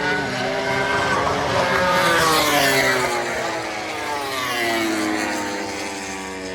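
MotoGP racing motorcycles passing at speed, their engine notes getting louder, then dropping in pitch as they go by and fade. Several engine notes overlap.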